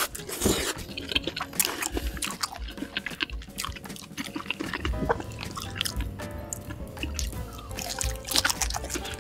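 Wet, sticky chewing and mouth clicks of a person eating fried food dipped in melted cheese sauce, with background music.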